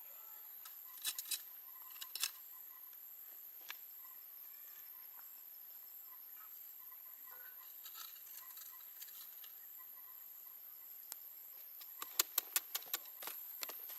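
Sharp clicks and taps: a few about a second and two seconds in, then a quick run of about six near the end, over a faint steady high-pitched hum.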